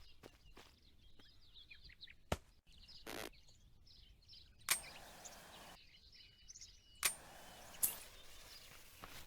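Fireworks going off: scattered sharp bangs, the loudest about two seconds in, then near five, seven and eight seconds, some followed by about a second of crackling hiss.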